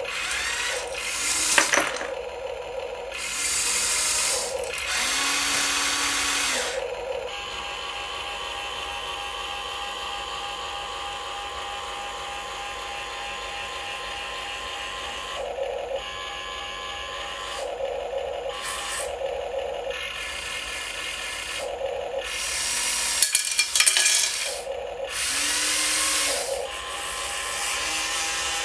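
Small electric motors and gearboxes of radio-controlled toy trucks and an excavator whirring in repeated short bursts of one to two seconds, with brief rising and falling whines between steadier running.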